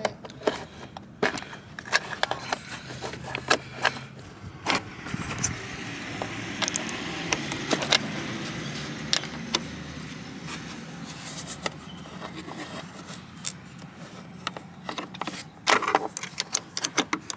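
Scattered metal clicks and clinks from battery cable clamps and a wrench as a truck battery's cables are fitted back onto its terminals. A steady low hum runs through the middle.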